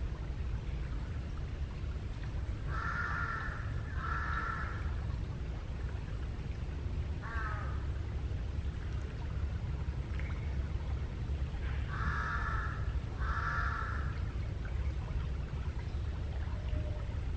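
Wild black crow cawing: a pair of caws a few seconds in, a shorter single caw near the middle, and another pair later, with a steady low rumble underneath.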